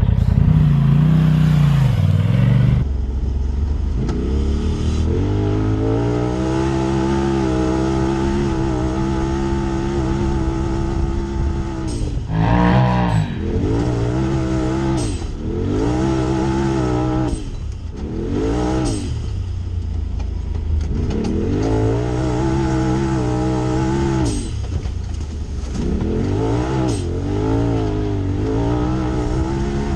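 High-performance car engine under hard acceleration: the revs climb steadily, then drop sharply with each gear change, about half a dozen times, with a loud hiss of rushing air and tyres in the first couple of seconds.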